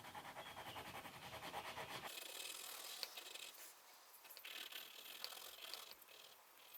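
Orange crayon rubbing back and forth on paper in quick, faint strokes. After about two seconds the strokes become lighter and more scattered.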